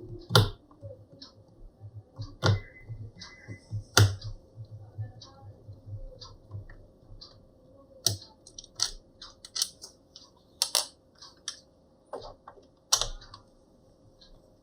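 Irregular small plastic clicks and ticks, with half a dozen sharper knocks, from hands and a small screwdriver working on a laptop's plastic case while its back panel is being taken off.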